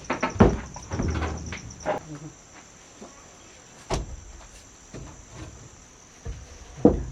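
Irregular knocks and scrapes of a stone footing and a wooden post being shifted and set, a cluster in the first two seconds, a sharp click about four seconds in and a loud knock near the end, over a steady chirring of crickets.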